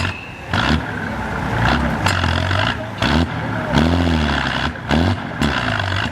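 Trial truck's engine running under load, revving up and dropping back about four seconds in, with several sharp knocks and clatter.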